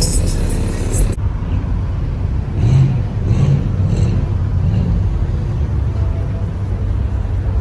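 Car engine running at a rumbling idle, revved in three quick blips about three seconds in.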